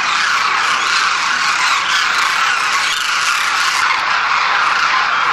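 A large flock of pigeons flying overhead: a dense, steady rush of many wingbeats.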